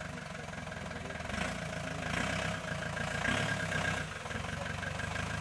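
Off-road 4x4's engine running steadily at low revs as it crawls over a steep crest.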